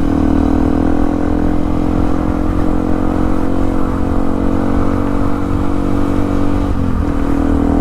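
Yamaha WR155R single-cylinder motorcycle engine running at a steady cruise under the rider. Near the end the engine note dips briefly and then settles again.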